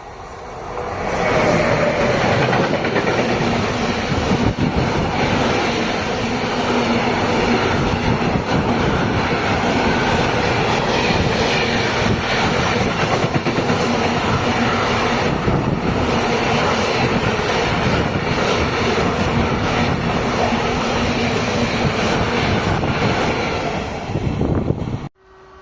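Train passing close by for over twenty seconds, wheels clattering over the rails. It cuts off suddenly near the end.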